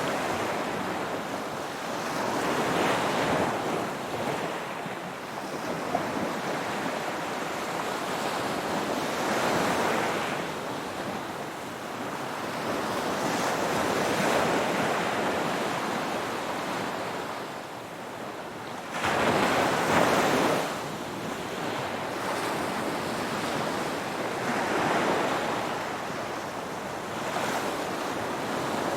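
Ocean surf: waves breaking in slow surges every few seconds. The loudest surge comes in suddenly about two-thirds of the way through.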